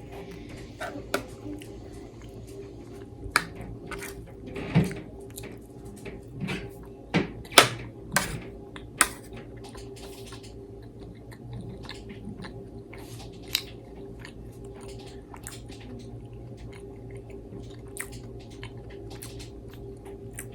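Close-miked chewing and eating mouth sounds: a string of sharp wet clicks and smacks, busiest in the first half and sparser later, over a steady low hum.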